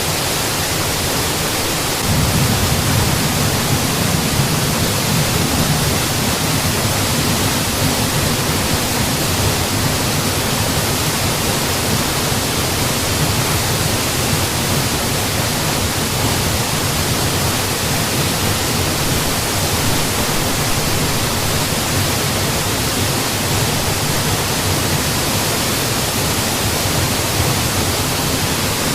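Steady rushing of a waterfall, a dense even roar of falling water, with the low rumble growing fuller about two seconds in.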